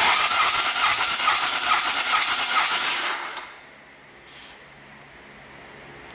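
A loud hiss of pressurised air escaping that starts suddenly, runs for about three seconds and then dies away, followed about a second later by a second short hiss.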